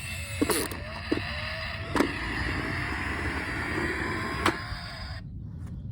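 Small electric motor of a battery-powered toy car whining, its pitch rising slowly, with a few sharp clicks; the whine cuts off about five seconds in.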